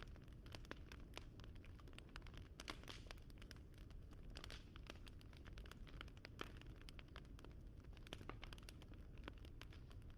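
Wood fire crackling quietly: irregular small pops and snaps over a low steady rumble.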